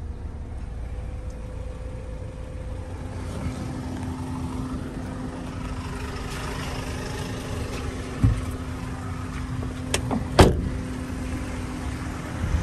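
Ford Fiesta 1.5 four-cylinder engine idling steadily just after a push-button start. Two knocks come about eight and ten seconds in, the second the loudest, as the car door is opened and shut.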